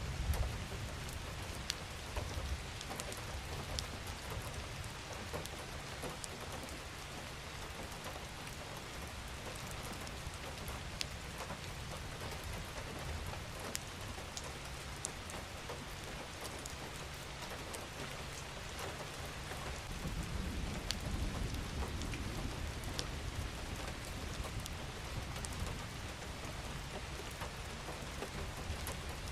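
Steady rain falling, with individual drops ticking sharply close by. A low rumble swells briefly at the start and again about twenty seconds in.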